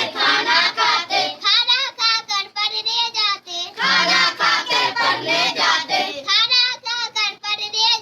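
A young child singing a Hindi children's poem in a high voice, phrase after phrase, with brief pauses between lines.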